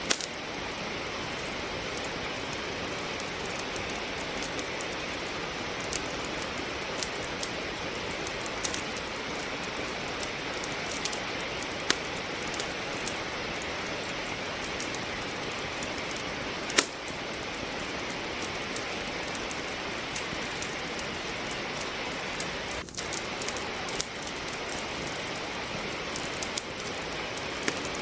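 Steady rain falling, with firewood crackling in a fireplace: sharp pops and snaps every second or few, one louder pop about two-thirds of the way through.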